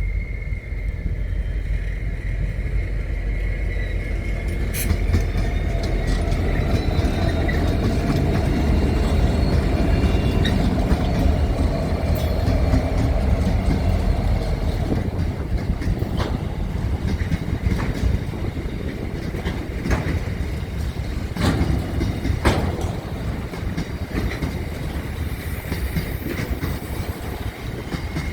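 A train rolling by: a steady low rumble with scattered sharp clicks from the wheels, loudest in the middle.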